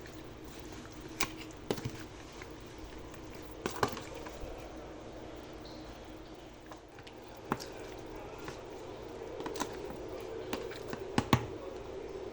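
Kitchen preparation sounds: scattered light knocks and clicks of utensils and food handling at irregular intervals, a little louder near the end, over a steady low hum.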